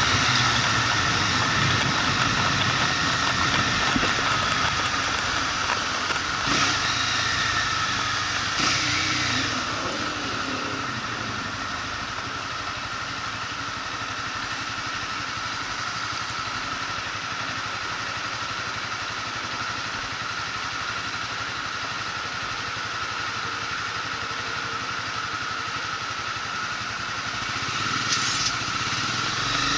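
Motorcycle engine running with road and wind noise, heard from the rider's camera: louder for the first third, then settling lower and steadier, and picking up again near the end. A few short clicks sound along the way.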